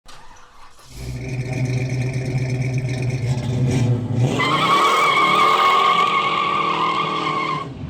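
Car's V8 engine running steadily, then revved up at about four seconds and held at higher revs before the sound cuts off suddenly near the end.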